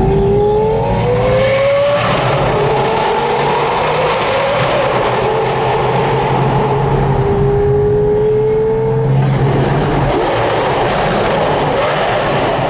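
A car engine accelerating hard: its note rises over the first two seconds, then runs at a steady pitch with a second, gentler rise that stops about nine seconds in. Road and wind noise run underneath.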